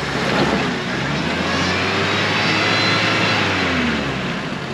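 An off-road vehicle's engine running with a steady low drone that eases off near the end, with a faint high whine rising and falling over it in the middle.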